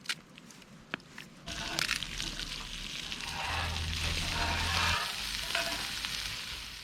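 Food sizzling on a hot cast-iron griddle. A few light clicks come first, then the sizzle sets in about a second and a half in, swells, and fades near the end.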